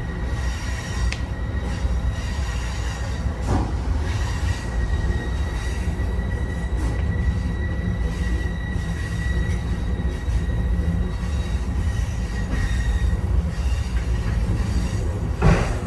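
Amtrak Auto Train passenger car rolling along the track: a steady low rumble of the wheels on the rails with a thin, high wheel squeal for the first ten seconds or so, broken by a knock about three seconds in and a louder one near the end.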